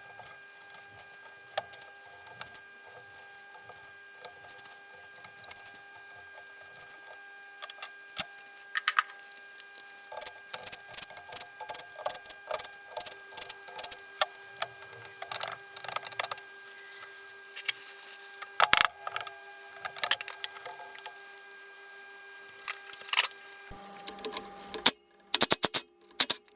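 Irregular metallic clicks, taps and clinks of hand tools against engine parts during disassembly, over a faint steady hum. The clicks come in quick clusters, busiest in the second half.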